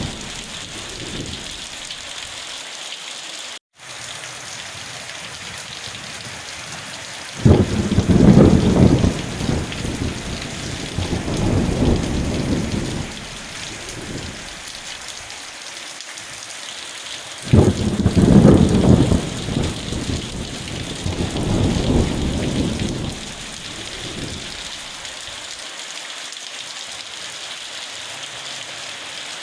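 Steady rain with thunder rolling twice, each peal breaking suddenly and rumbling for about five seconds before fading back under the rain. The sound cuts out for an instant about four seconds in.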